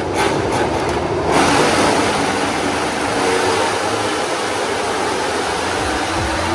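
MotoGP racing motorcycles going past on the track, a dense rush of engine noise that swells about a second in.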